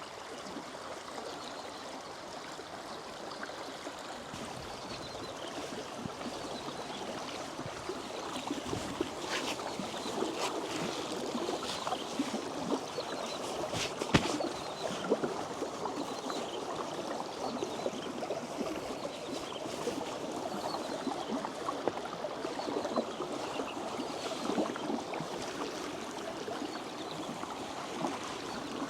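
Stream flowing and gurgling over rocks, a steady sound of running water, with a few sharp knocks in the middle.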